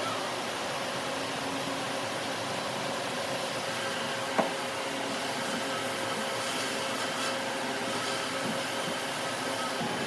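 Steady whirring of a running machine motor, with one constant tone, and a single short tick about four seconds in.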